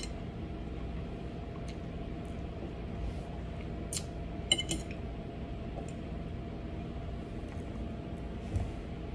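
A few light clinks and clicks of utensils on dishes during eating, the sharpest about four and a half seconds in, over a steady low background hum.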